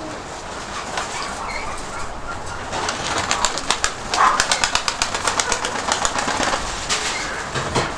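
Nikolaev pigeons' wings flapping rapidly at close range, a fast run of wingbeats lasting about four seconds from roughly three seconds in.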